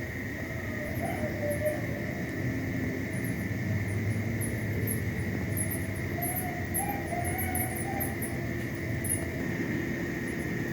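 Night-time insects: a steady high trill that runs throughout, with many short, rapid, very high chirps repeating through the middle, over a steady low rumble.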